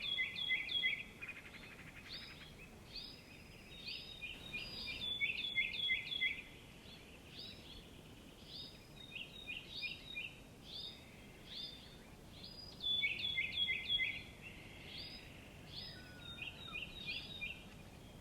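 Small songbirds chirping: short, downward-sliding chirps come in quick runs, about three times, with single calls in between.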